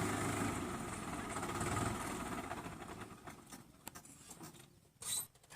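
Tractor diesel engine running steadily, then fading away about two seconds in, leaving faint scattered clicks and a short sharp sound near the end.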